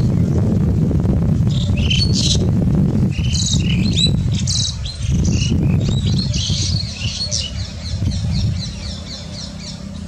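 Small birds chirping in short high notes, with a quick run of repeated notes from about six to eight seconds in, over a steady low rumble.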